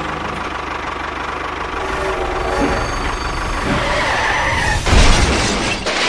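A vehicle engine running steadily, then a loud crash about five seconds in.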